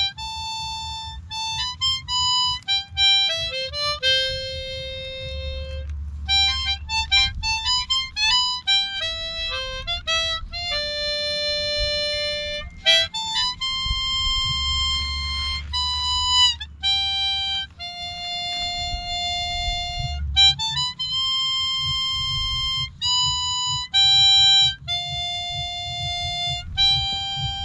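Harmonica playing a solo melody, quick runs of short notes broken by long held notes.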